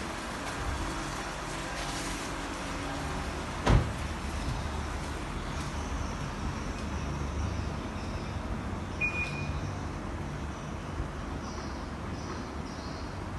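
Toyota Camry ACV40's four-cylinder engine idling steadily, with a single loud thump a little under four seconds in and a brief high beep about nine seconds in.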